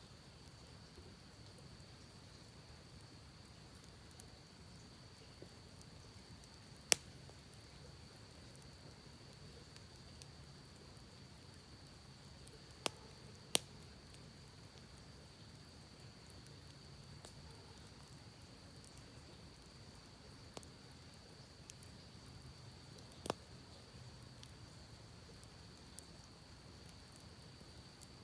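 Campfire burning quietly, with a few sharp pops from the wood, the loudest about seven seconds in and two close together near the middle, over the steady wash of a creek.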